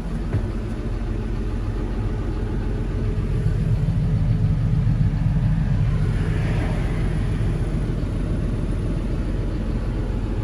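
Claas Arion 630 tractor's six-cylinder diesel engine running steadily, a little louder for a few seconds around the middle, with a short hiss just after.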